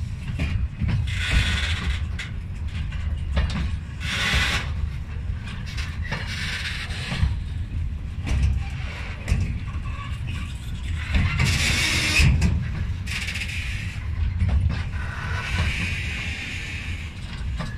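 Freight train of flat wagons carrying tank containers rolling past close by: a steady low rumble of the wheels, with repeated clicking and clattering over the rail joints and short bursts of high squealing every few seconds.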